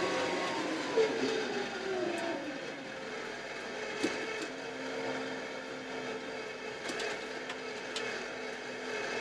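Kioti RX7320 tractor's diesel engine and hydraulics running, heard from inside the cab. The pitch drops over the first two seconds or so as the engine slows, then settles into a steady hum, with a few sharp clicks or knocks.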